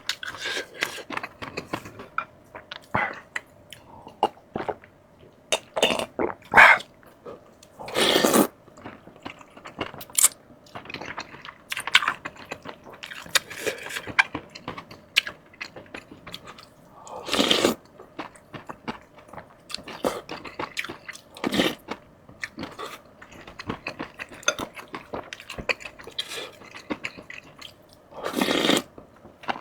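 Close-miked eating: steady wet chewing with crisp crunching and many small clicks, typical of biting into fried food. Three louder bursts, each about half a second long, come roughly nine seconds apart.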